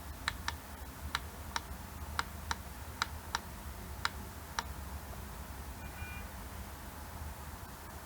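Small push buttons on a phone LCD tester being clicked repeatedly, about a dozen sharp, unevenly spaced clicks in the first four and a half seconds, as the iPhone 4s setting is selected. A faint short electronic beep about six seconds in, over a low steady hum.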